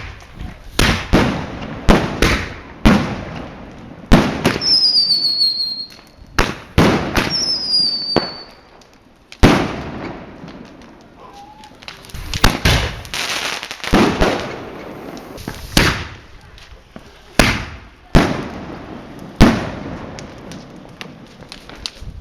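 Fireworks going off: a run of sharp bangs, many with crackling tails. About four and seven seconds in come two whistling rockets, each whistle falling in pitch. There is a dense stretch of crackling around the middle.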